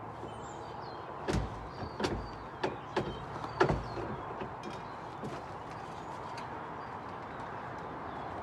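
About six sharp, irregularly spaced knocks and clatters in the first half, as of boards or tools being handled while working on a wooden rabbit hutch, over a steady background hiss. Faint bird chirps are heard.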